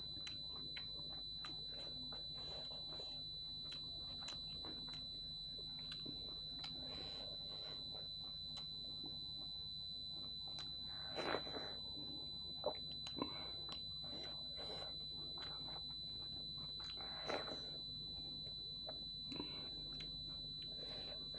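A person eating dhido and chicken curry by hand: soft chewing with scattered wet mouth clicks, and a few louder smacks about halfway through. A steady high-pitched electronic whine sits under it throughout.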